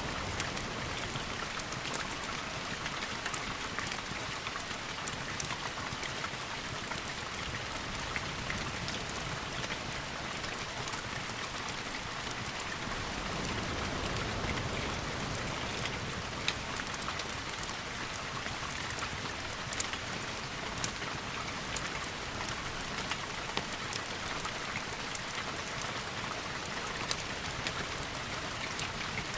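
Steady rain falling, with scattered sharp ticks and a low swell about halfway through.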